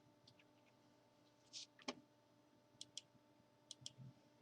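Near silence with a few faint, sharp clicks, some coming in quick pairs.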